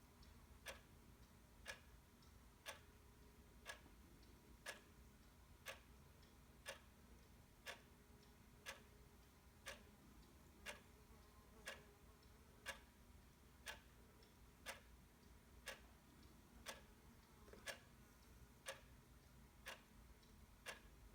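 A clock ticking faintly, one sharp tick each second, with a few fainter ticks between.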